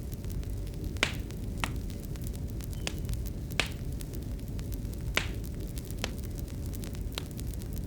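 Fireplace crackling: a steady low rush of burning with sharp, irregular pops and snaps every second or so, over a faint steady hum.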